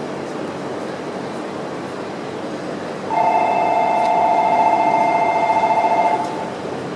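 Electric train running with a steady rumble, and about three seconds in a loud two-tone horn sounds for roughly three seconds and then stops.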